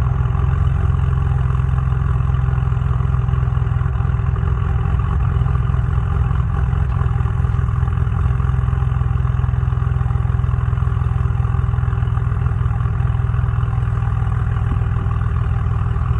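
Saab 9-3 2.8T turbocharged V6 idling steadily shortly after a cold start, exhaust running through a gutted stock downpipe (open downpipe) with no catalytic converter.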